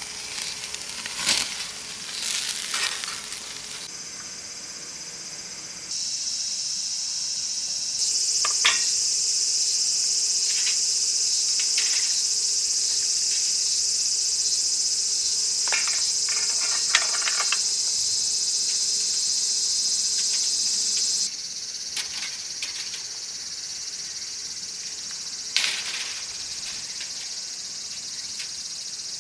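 Insects chirring in a steady high drone, much louder through the middle stretch, which starts and stops abruptly at edits. Scattered light clicks and knocks sound over it.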